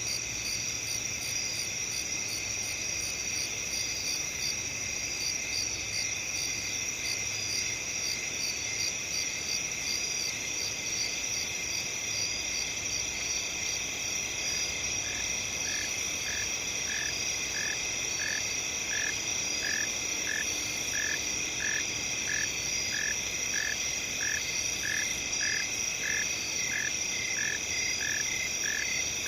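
Night chorus of crickets and other insects trilling steadily, several overlapping high-pitched trills with faster chirping above them. About halfway through, a lower call joins in, repeating evenly about twice a second.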